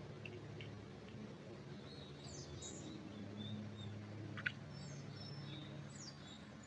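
Small birds chirping in short high notes and quick sweeps, over a steady low hum. One sharp, louder chirp comes about four and a half seconds in.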